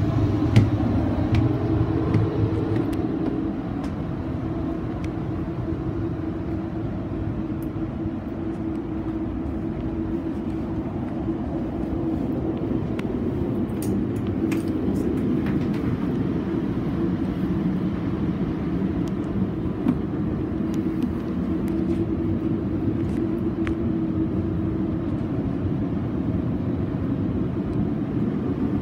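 Inside a Metrolink bilevel passenger car under way: the train's steady rumble with a constant hum and a few faint rattles.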